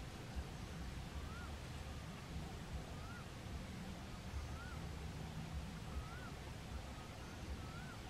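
A bird repeating a short whistled note that rises and falls, about six times with a second or more between them, over a low rumble.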